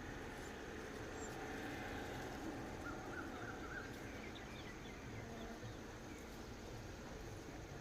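Faint outdoor background noise with a quick run of four short high bird chirps about three seconds in, and a few fainter chirps just after.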